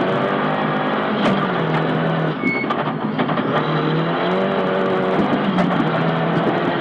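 Nissan Silvia S15 rally car's engine heard from inside the cabin, running hard at high revs with a brief lift about a third of the way in before pulling again. Scattered sharp clicks sound over it.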